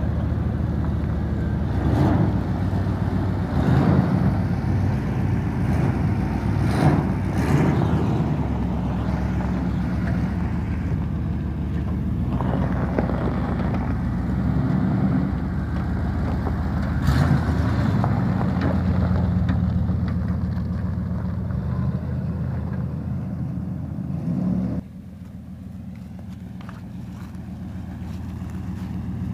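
Chevy 350 V8 with a carburettor, in a 1991 Chevy 2500 pickup, idling steadily on its stock exhaust, which has an exhaust leak near the engine. A few short knocks sound over it, and about 25 seconds in the engine suddenly sounds quieter while it keeps running.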